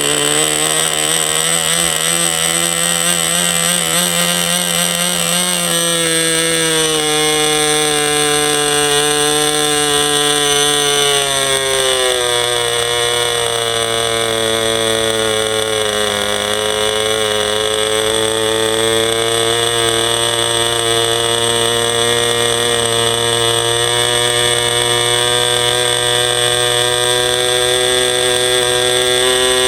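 Enya .15CX two-stroke glow engine running continuously at high revs. Its pitch wavers and sags lower over the first half, with a sudden drop about twelve seconds in, then slowly climbs again.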